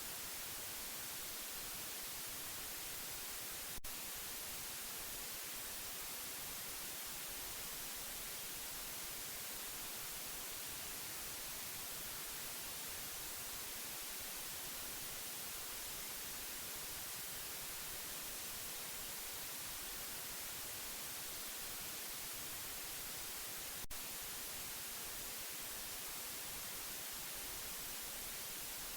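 Steady white noise: an even, unchanging hiss, strongest in the treble. Two brief clicks break it, one about four seconds in and another about twenty seconds later.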